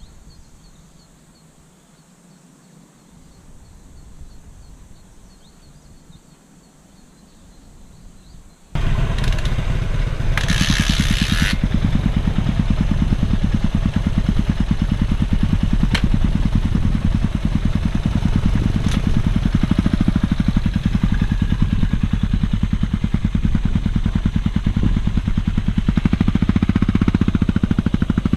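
After a quiet stretch, a motorcycle engine starts abruptly about a third of the way in and settles into a steady idle. There is a short hiss just after it catches.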